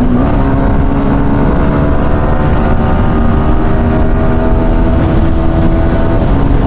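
Yamaha R15 V4 sport motorcycle's single-cylinder engine running at steady revs while cruising on the highway, with heavy wind noise on the microphone.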